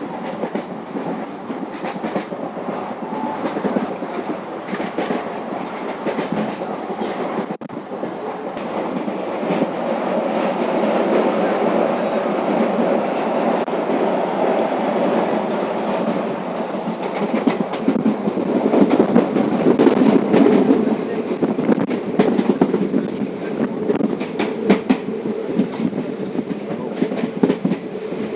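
Express passenger train running at speed, a steady rumble with the clickety-clack of the coach wheels over the rail joints. It gets louder about ten seconds in and is loudest around twenty seconds.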